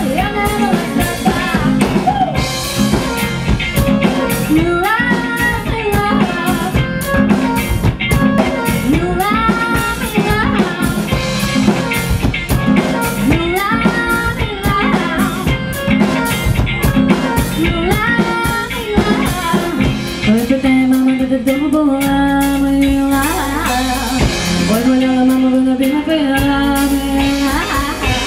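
Live rock cover band playing a song on stage, with drum kit and guitar under a melodic line with bending notes.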